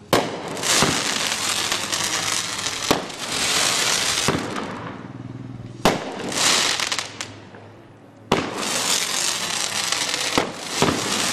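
Titan's Fury 18-shot firework cake firing shot after shot: sharp bangs roughly every one to two seconds, each followed by a second or two of crackling as the shell bursts into sparks.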